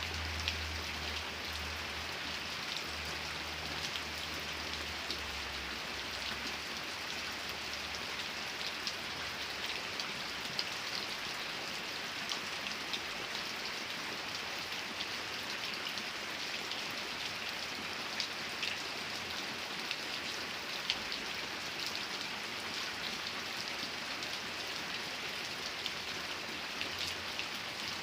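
Steady rain falling, with single drops ticking sharply on a surface now and then. A low rumble sits under the rain for the first several seconds and fades out.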